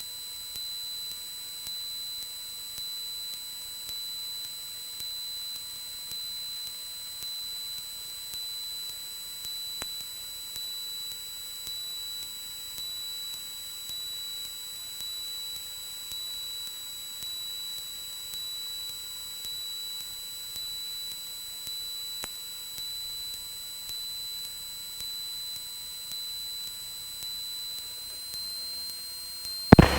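A steady, high-pitched electronic whine held on one pitch, with a faint pulse in level about once a second.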